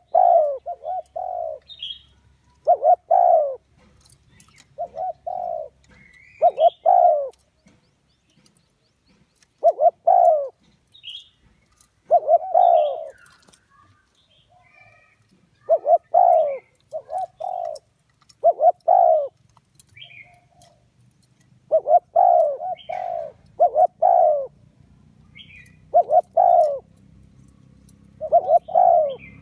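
Spotted dove cooing: phrases of two to four low coos, repeated every two seconds or so. Faint higher chirps come between the phrases.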